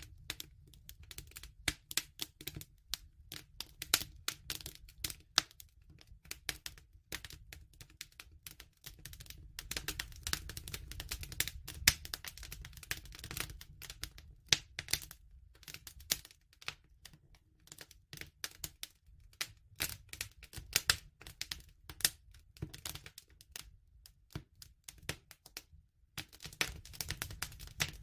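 Wood fire crackling: a dense, irregular run of sharp pops and snaps over a low, steady rumble of burning.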